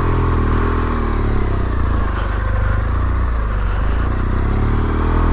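Yamaha Ténéré 700's parallel-twin engine running at low revs on a slow, narrow descent. Its note dips and then rises again near the end as the throttle is worked.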